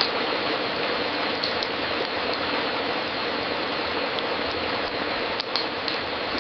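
Wood fire crackling in a fireplace: a steady hiss with a few sharp pops scattered through it, two close together near the end.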